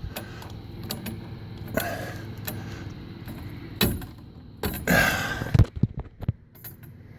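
Metal conduit poles and fittings being handled and tightened on a truck rack: scattered clanks, knocks and scrapes. The sharpest knocks come about five and a half seconds in.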